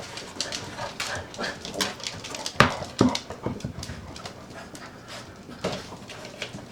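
Labrador puppies playing on a kitchen floor: small whimpers and panting among quick scuffling clicks. Two louder sharp hits come about two and a half and three seconds in.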